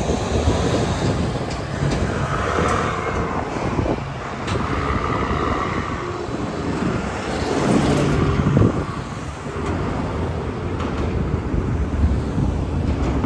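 Roadside traffic: motor vehicles running past with a steady low engine rumble, the loudest pass swelling and fading about eight seconds in.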